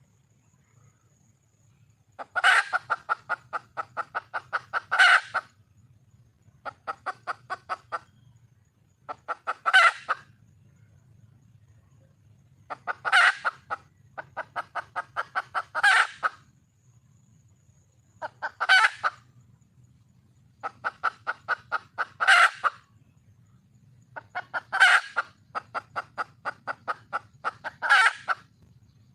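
Red junglefowl hen calling: bouts of rapid clucks, many ending in a louder call, repeating every few seconds. This is the wild hen's call for a mate.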